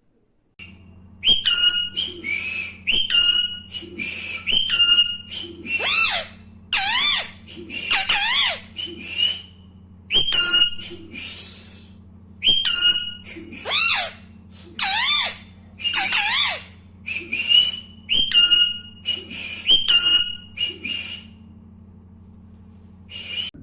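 Alexandrine parakeet whistling and calling: a long series of loud, short high-pitched calls, several of them whistles that waver up and down in pitch. A steady low hum runs underneath.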